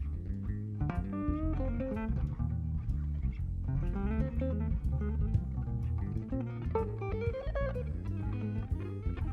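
Live blues-jazz instrumental jam: electric guitar lines over electric bass and drums.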